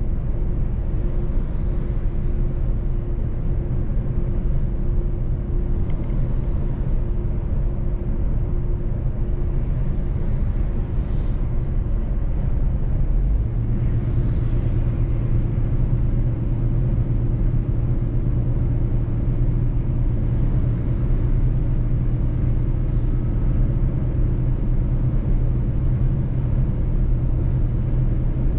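Mercedes-Benz truck's diesel engine running under way, with road noise, as a steady low drone. About halfway through, the engine note changes and grows stronger.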